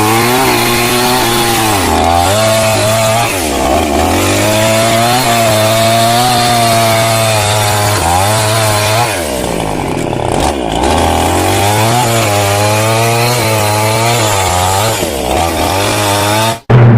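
A small engine running steadily, its pitch wavering up and down, until it cuts off abruptly near the end.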